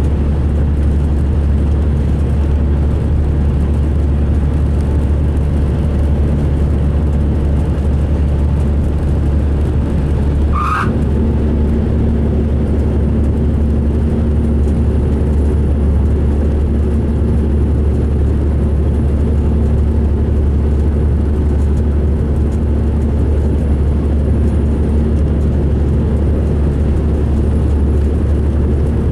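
2005 MCI D4500 coach running at a steady pace, a loud, even low drone of engine and road noise; this is the coach the uploader says sounded rough running. A short squeak comes about eleven seconds in, followed by a steady hum.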